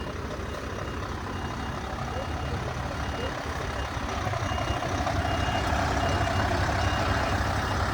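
A heavy truck's diesel engine running with a steady low rumble that grows gradually louder, as if the truck is moving closer. A faint high beep repeats on and off throughout.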